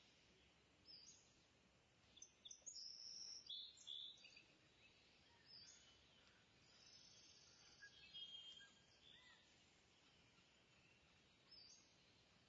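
Near silence with faint bird chirps in the background, in a few short clusters.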